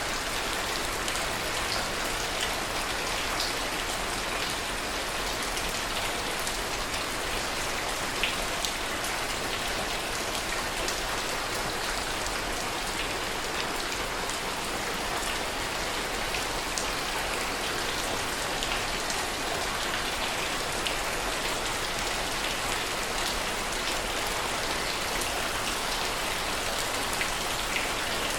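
Steady heavy rain: an even hiss with scattered sharp drop hits and no thunder.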